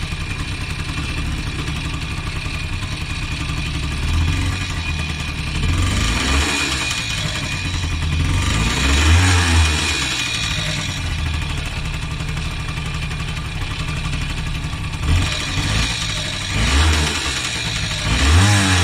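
Suzuki Colleda's small two-stroke moped engine idling, revved up and down several times, the biggest rev about nine seconds in. The engine still runs after its piston seized.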